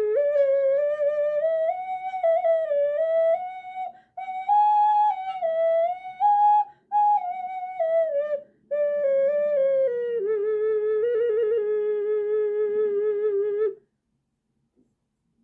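Bird-shaped ocarina tuned to a diatonic scale, playing a melody of wavering notes in a few phrases broken by short pauses. It ends on a long lower note with a quick trill in it, then stops shortly before the end.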